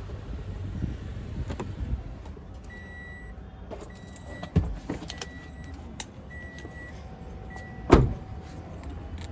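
A Toyota Innova Crysta's warning chime beeps five times in short high beeps, after a low rumble at the start. A knock comes midway, and a loud door thud about eight seconds in.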